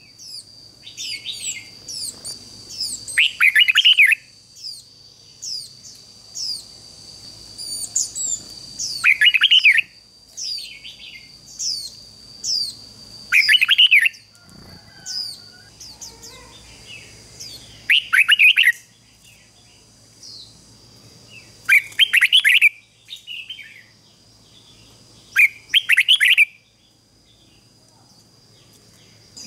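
Red-whiskered bulbul singing: loud, short phrases about every four seconds, with fainter quick high chirps in between. A steady, thin, high-pitched tone runs underneath.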